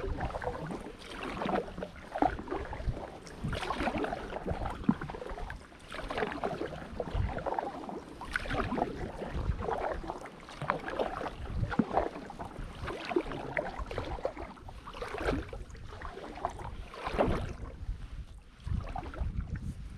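Kayak paddle strokes in the water from an inflatable drop-stitch kayak: the blade dips and splashes in a steady rhythm, about one stroke every one and a half to two seconds.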